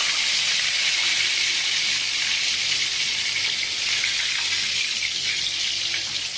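Chicken wings deep-frying in hot oil in a wok: a steady, even sizzle.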